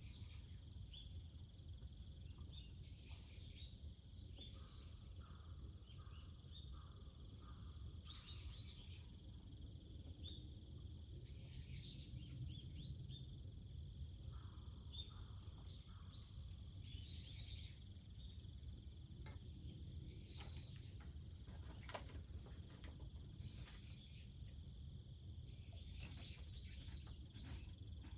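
Faint countryside ambience: small birds chirping on and off over a steady high insect drone and a low rumble, with a few sharp clicks in the second half.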